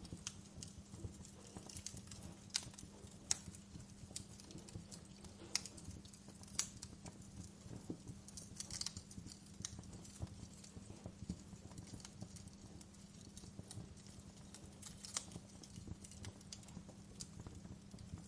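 Wood fire crackling in a fireplace: irregular sharp pops and snaps, a few louder ones among many small ticks, over a soft low rumble and a faint steady hum.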